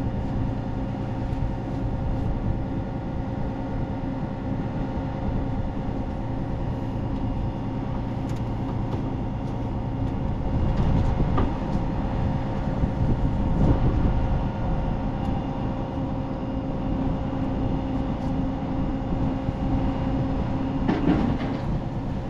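A running engine drones steadily at one constant pitch. A few brief clicks and handling noises come through about halfway and again near the end.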